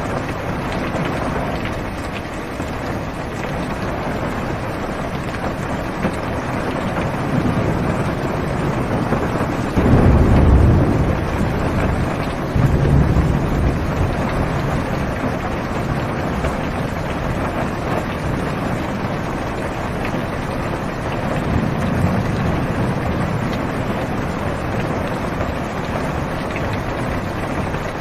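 Steady heavy rain on a car's roof and windows, heard from inside the car, with a low rumble of thunder about ten seconds in, a second about two seconds later, and a fainter one past twenty seconds.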